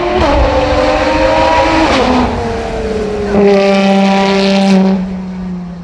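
Rally car engine accelerating hard up through the gears. The pitch climbs and drops sharply at each shift, about two seconds apart, then it runs loud and steady for over a second before fading.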